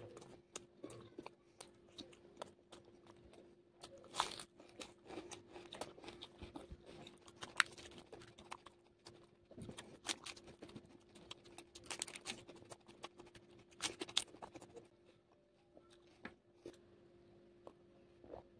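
Close-miked eating sounds: crisp crunching bites and wet chewing with mouth clicks, thinning out after about fifteen seconds, over a faint steady hum.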